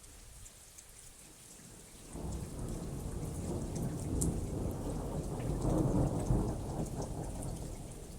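Steady rain falling with scattered drop ticks, and about two seconds in a long roll of thunder rises, peaks near the middle of its course, and fades away by the end.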